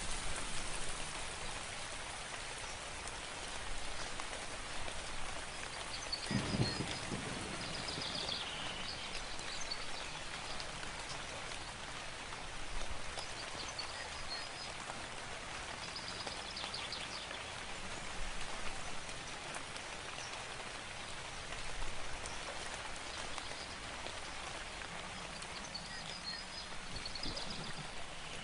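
Steady rain falling, with a songbird chirping in short clusters of high notes about three times. A brief low thump comes about six seconds in.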